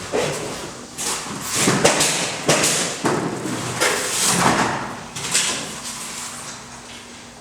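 A run of irregular scraping and rustling sounds, several short bursts one after another, each lasting under a second.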